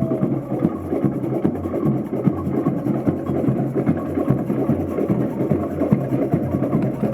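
Samba percussion band (bateria) playing: dense, fast drumming over a deep, pulsing bass drum.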